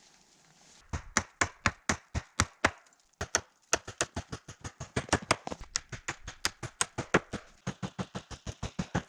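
A fast, even series of sharp knocks, about four a second, with a short break about three seconds in.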